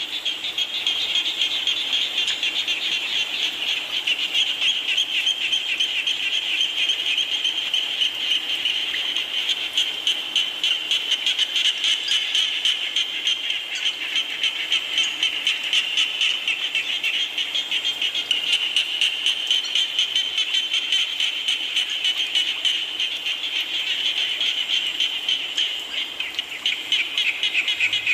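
A dense chorus of frogs calling, with rapid pulsing trills overlapping into a steady high-pitched churr, over a faint hiss of falling rain.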